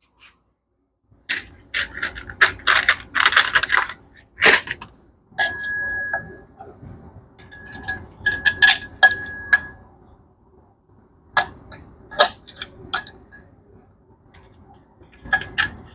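Metal engine parts being handled, clinking against each other with short bright ringing tones, in several clusters separated by short pauses.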